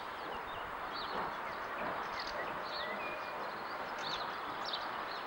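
Small birds chirping and singing, many short repeated notes with a brief whistled note about three seconds in, over a steady background hiss.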